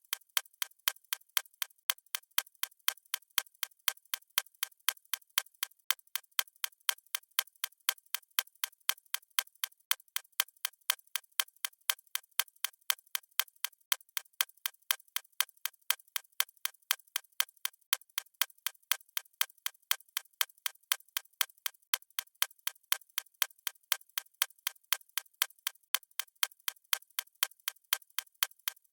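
Clock ticking steadily, a quick, perfectly even train of sharp, thin ticks with no bass.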